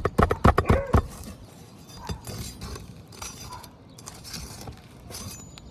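Fast run of sharp taps for about the first second, then quieter scraping and light metallic clinks. The sound is a roofing pry bar being worked under asphalt shingles against staples that have pulled through the shingles.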